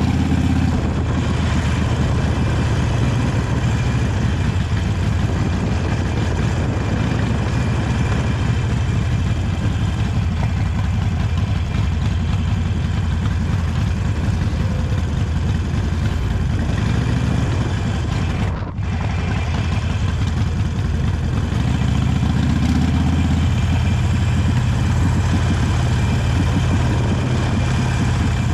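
Harley-Davidson Sportster 883 Iron's air-cooled V-twin with its stock exhaust, running steadily under way. The sound drops off briefly about two-thirds of the way through, then picks up again.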